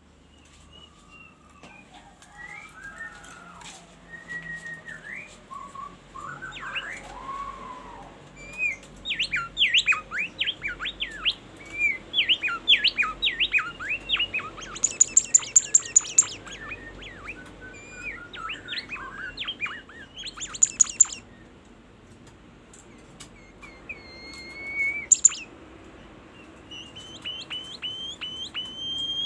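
Songbird (the bird keepers' 'bimoli') singing a varied run of whistles, slurred glides and quick chirps, broken by several short bursts of very rapid, high-pitched repeated notes: the 'tembakan' shots its keepers prize.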